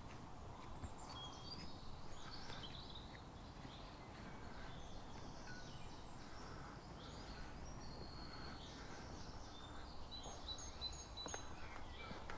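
Faint outdoor ambience with small birds chirping now and then in short, high calls, including a quick run of repeated notes near the end.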